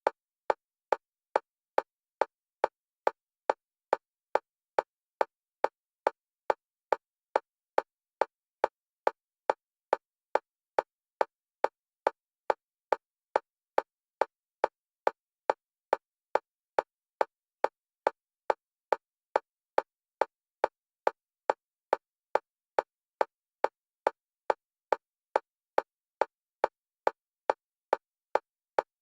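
Electronic metronome clicks of one pitch, short and evenly spaced at about two a second, alternating between left and right stereo channels for EMDR bilateral stimulation.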